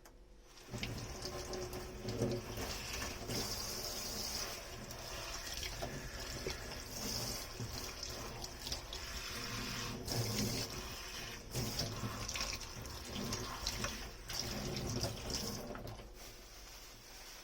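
Kitchen tap running into a sink as dishes are rinsed, with a few light knocks of dishware. The water comes on suddenly about a second in and eases off near the end.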